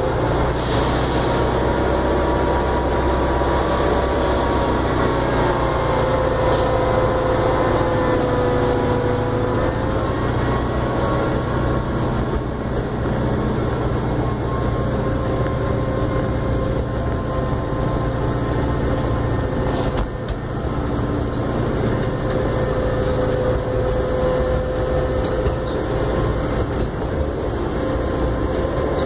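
Small park train running, heard from aboard: a steady low rumble with a thin whining tone that wavers in pitch.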